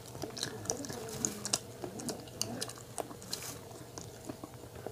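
Chewing of a soft chocolate-coated, marshmallow-filled donut: a run of small, wet mouth clicks and smacks, a few each second.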